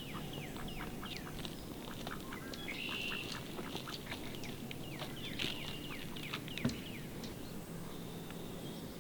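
Birds chirping in many quick, short calls that sweep down in pitch, one after another, with a single sharp click about two-thirds of the way through.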